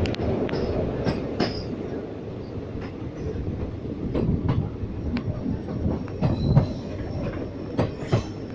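A train running on its track: wheels clattering over the rails with irregular sharp knocks over a steady low rumble.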